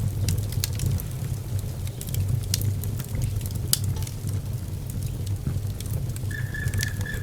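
Wood fire burning, with irregular sharp crackles and pops over a steady low rumble of the flames. A thin, steady high whistle comes in about six seconds in.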